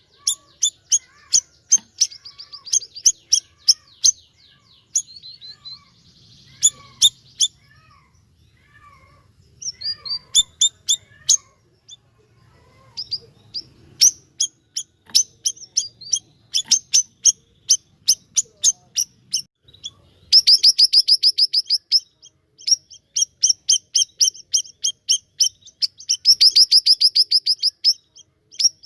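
Siri-siri bird (a tailorbird) singing vigorously: series of sharp, high, repeated chips. Twice, about two-thirds of the way in and near the end, they run together into loud, fast rattling trills, with softer lower warbling notes through the first half.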